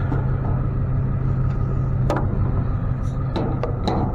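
A vehicle engine idling steadily with a low hum, likely the tow truck's, with a few light clicks and knocks about two seconds in and again near the end.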